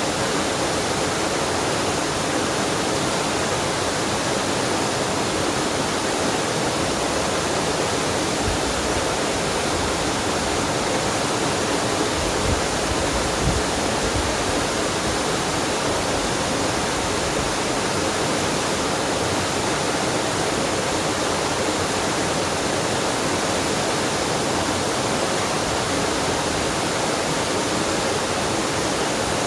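Waterfall and mountain stream water rushing steadily.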